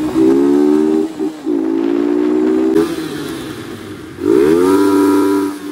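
MH Drift 150 motorcycle engine revving hard, its pitch climbing, breaking off and climbing again several times. After a quieter stretch it rises quickly and holds high near the end.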